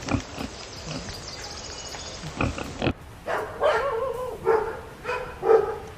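Pigs grunting in short strokes, then, about halfway through, a dog barking repeatedly.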